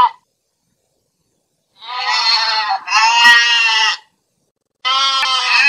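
Domestic goat bleating: two bleats back to back about two seconds in, then another beginning near the end.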